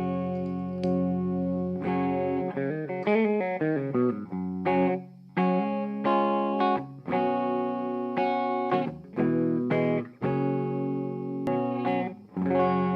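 Electric guitar played through an M'Amps pocket power amp (an EF95/6J1 mini-pentode tube stage driving a class D output) into a guitar speaker. It opens on held chords, plays a quick run of single notes a few seconds in, then a string of chords separated by short breaks.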